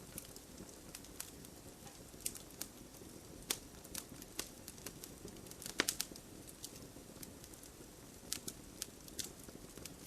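Campfire crackling: irregular sharp pops and snaps of burning wood over a low, steady rush of flame, with the loudest pops about three and a half and six seconds in.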